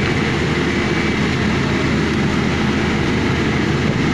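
Heavy engine running steadily with a continuous low rumble and even noise.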